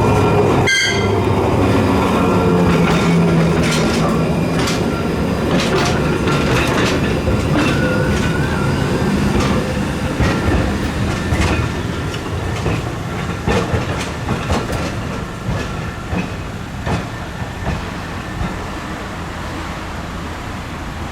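Trieste–Opicina tram running on its rails: a steady low rumble with wheels clicking and knocking over rail joints, and a brief squeal about eight seconds in. The sound slowly fades as the tram moves away.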